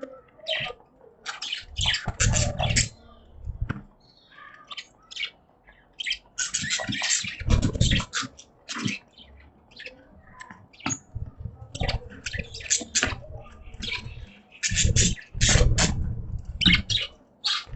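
Budgies chirping and squawking in bursts of quick, short chirps with brief pauses between. Low bumps come a few times alongside the busier bursts.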